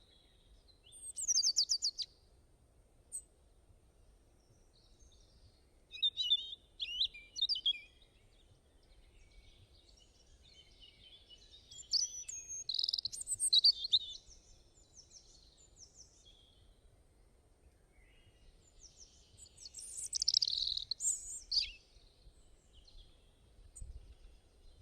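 Small birds chirping and singing in four short high-pitched bouts of quick notes and trills, with quieter gaps between them.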